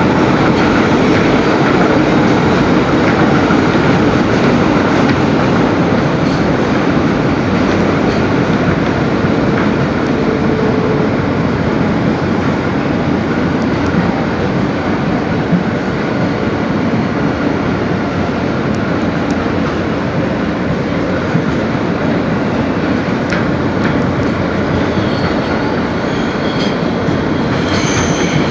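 Interior of an R160B subway car running at speed: a steady rumble of wheels on rail with clickety-clack from the track joints. Near the end, thin high-pitched wheel squeal begins to come in.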